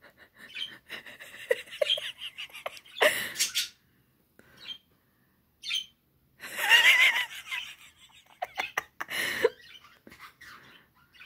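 Pet birds chirping and singing in short calls, with a louder gliding call about two thirds of the way through and a couple of brief noisy bursts.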